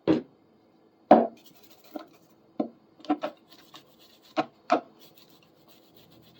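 Irregular sharp knocks and clacks of a steel pair of pliers being handled and worked at its joint for cleaning, about eight in five seconds, the loudest about a second in.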